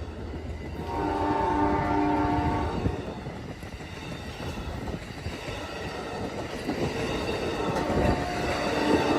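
Amtrak California Zephyr passenger train passing with a steady rumble of its cars on the rails. The locomotive horn sounds a chord for about two seconds, about a second in, and sounds again more faintly near the end.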